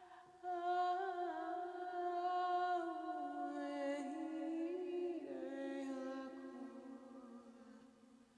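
Wordless channeled vocal toning: a single voice sings long held notes with no words, sliding slowly between pitches. It comes in about half a second in, drops lower around five seconds in, and fades toward the end.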